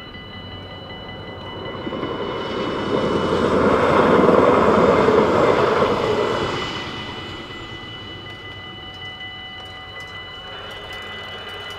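A train passing over a level crossing, swelling to its loudest in the middle and fading away within a few seconds, over the steady ringing of the crossing's warning bells.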